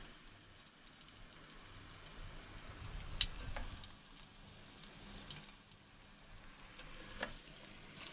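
Faint sizzling of a mackerel cutlet shallow-frying in oil in a pan, with a few sharp ticks scattered through it.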